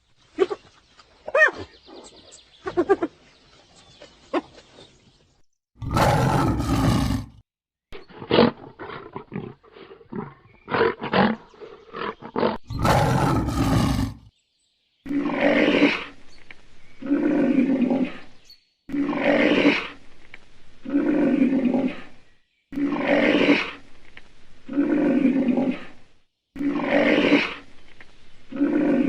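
A large wild animal roaring: a few scattered calls, two loud harsh roars, then a steady series of roars repeating about every two seconds.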